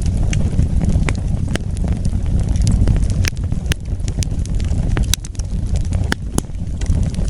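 Wood fire burning: a steady low rumble of flames with sharp crackles and pops every second or so.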